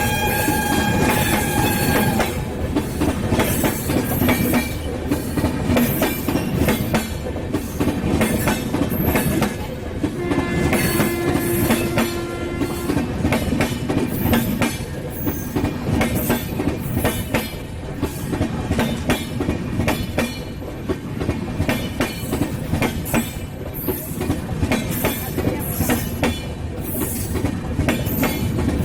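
A train running on the rails, its wheels clacking over the rail joints in a rapid run of clicks throughout. Short steady high tones sound during the first two seconds and again from about ten to thirteen seconds in.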